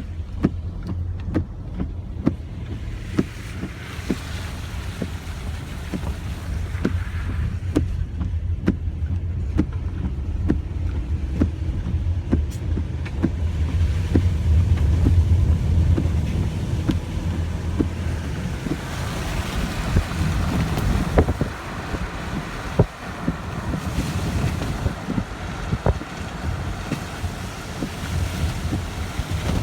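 Steady low rumble of a vehicle, heard from inside the cabin, with wind buffeting the microphone and frequent small knocks and bumps. The hiss grows stronger about two-thirds of the way through.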